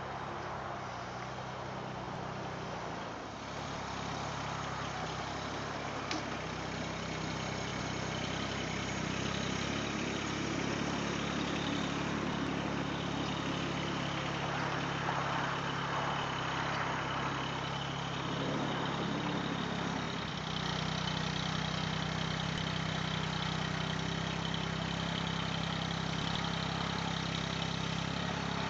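Compact tractor's diesel engine running steadily, a little louder from about three seconds in; the machine is a Mahindra eMax 20S HST.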